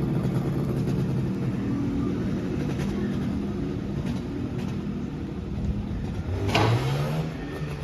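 A vehicle engine running steadily at low revs. About six and a half seconds in, a brief louder sweeping sound rises over it.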